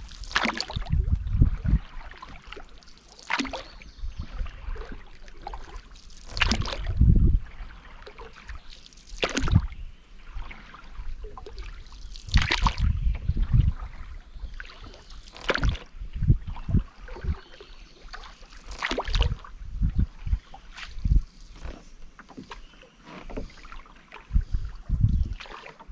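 Canoe paddle strokes in river water, a splash about every three seconds, with low rumbles under each stroke.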